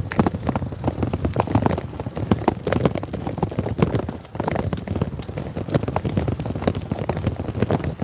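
Motorbike on the move: the engine runs low and steady under a dense, irregular crackle of wind buffeting on the microphone.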